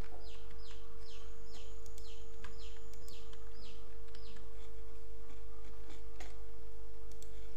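A bird singing a quick run of about ten falling notes over the first four seconds, over a steady low hum. A couple of sharp mouse clicks come near the end.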